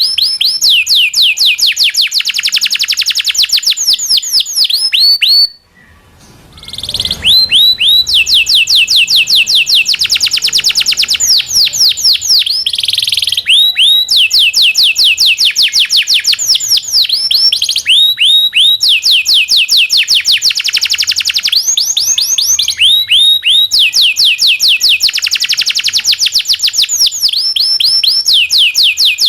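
Domestic canary singing long rolling trills of rapid, repeated downward-sweeping chirps, strung together almost without pause. The song breaks off briefly about six seconds in, then resumes.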